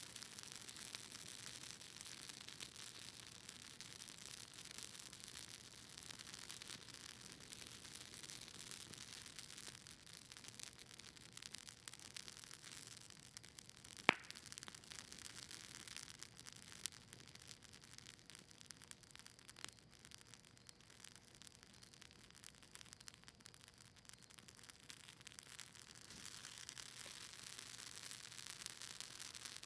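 Campfire of cedar leaves and maple wood crackling softly: a hiss of fine ticks and small pops, with one sharp, louder pop about halfway through.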